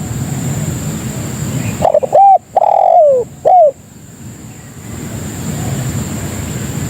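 Spotted dove (tekukur) cooing: one phrase of four coos about two seconds in, the third the longest and loudest, over a steady low background noise.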